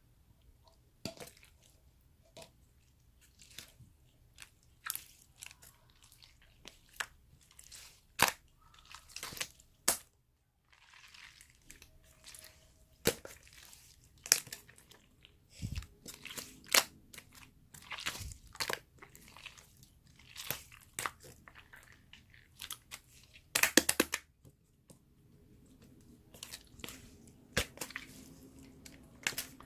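Slime being pressed and squeezed by hand, giving irregular sticky pops and crackling clicks, with a louder run of crackles about three-quarters of the way through.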